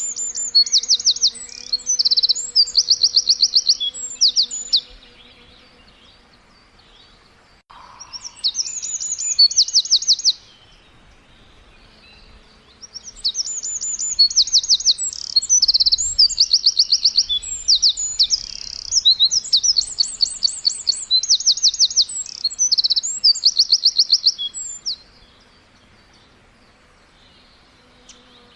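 Songbird chirping in bouts of fast, high, rapidly repeated notes, with short pauses between the bouts.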